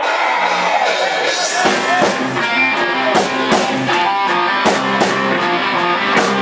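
Live rock band playing an instrumental intro: guitar chords ring out, and drums come in about a second and a half in, keeping a steady beat under the guitar.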